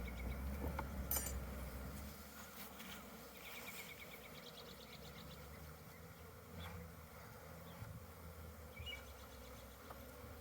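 Honeybees buzzing around an opened hive. A low rumble fades out over the first two seconds, and a few faint clicks and two short high trills come through.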